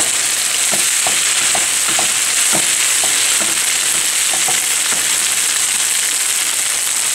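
Gobi manchurian of sauced fried cauliflower, capsicum and onion sizzling steadily in a pan. A wooden spatula stirs it and knocks against the pan about twice a second over the first four or so seconds, then the sizzle carries on alone.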